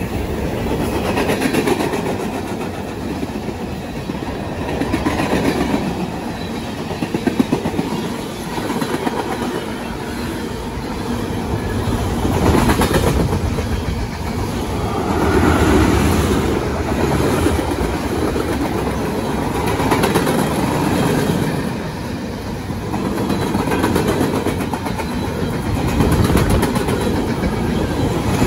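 Freight train cars rolling past close by: a steady rumble of steel wheels on rail, with clicking as the wheels cross rail joints. The sound swells and eases every few seconds as the cars go by.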